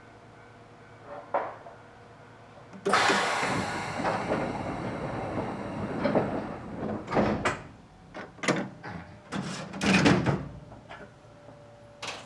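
Narrow-gauge train's sliding doors working: a sudden hiss about three seconds in that fades over a few seconds, then several knocks and clatters.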